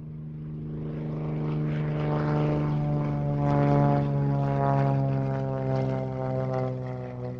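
Propeller aircraft engine droning with a steady low pitch, growing louder over the first few seconds, then its pitch and level easing slightly near the end.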